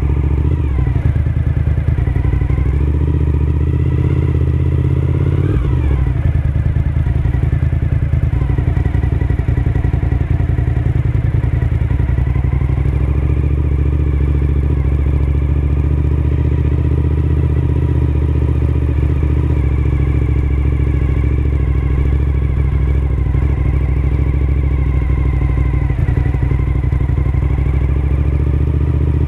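Suzuki SV1000S's 90-degree V-twin engine running steadily while the bike is ridden. Its note rises and then drops briefly about five seconds in.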